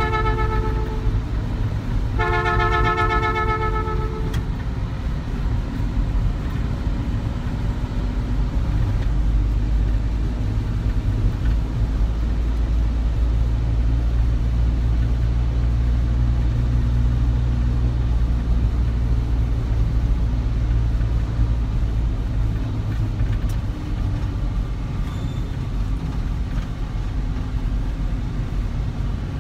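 A vehicle horn honks twice: one blast ends about a second in, and a second one lasts about two seconds. Under both there is a steady low rumble of engine and road noise.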